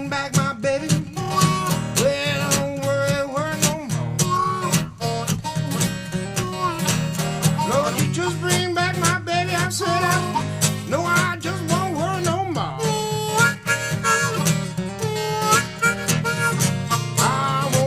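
Instrumental break of an acoustic blues: a harmonica playing a solo with bent notes over a steadily picked acoustic guitar.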